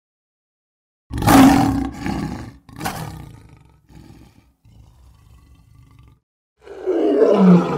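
Bear roaring: two loud, rough roars close together, a quieter low grumble, then a last roar that drops in pitch near the end.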